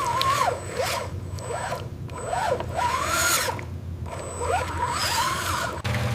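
Small electric motors of radio-controlled construction models whining, their pitch rising and falling in short glides, with bursts of hiss between them. Near the end it cuts off abruptly into a steady low hum.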